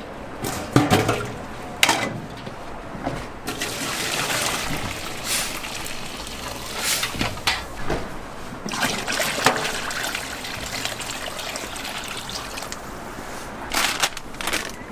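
Liquid trickling and pouring at a street-food toast stall, with sharp clinks and knocks of kitchen utensils several times.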